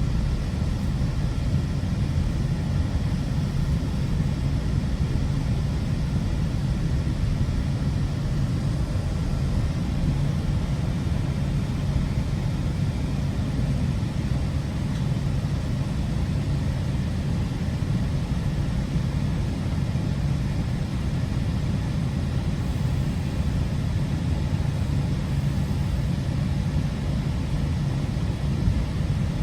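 Steady low rumble of a GO Transit commuter train running along the line, heard from inside a passenger coach, with a steady low hum under it and an even level throughout.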